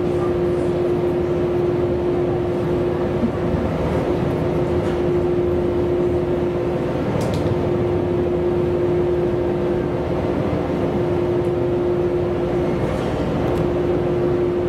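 Diesel railcar running, heard from inside the passenger cabin: a steady running rumble with a constant hum.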